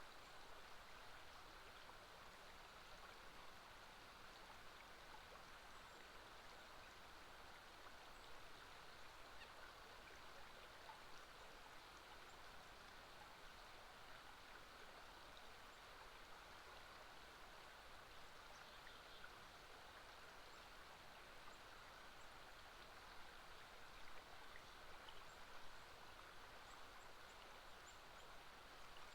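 Faint, steady flow of river water, an even rushing hiss.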